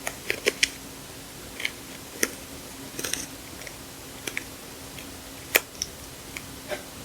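Sticker sheets and their plastic packaging being handled: irregular crisp clicks and crinkles, the loudest about five and a half seconds in, over a faint steady hum.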